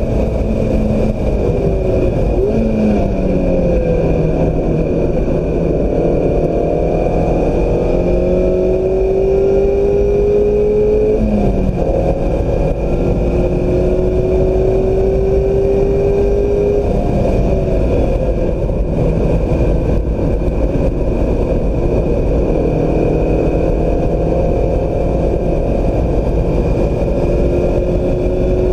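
2016 Mazda MX-5 Miata's 2.0-litre four-cylinder engine run hard on track. Its pitch climbs steadily through each gear and drops sharply at several gear changes, over loud wind and tyre noise.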